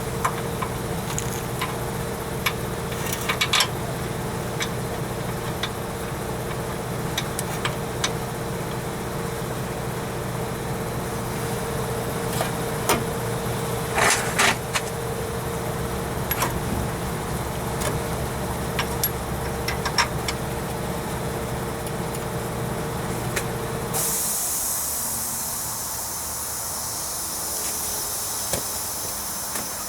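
A steady mechanical hum with scattered sharp metallic clinks of tools working on the truck's front hub. About 24 seconds in, the hum cuts off and a steady high hiss takes its place.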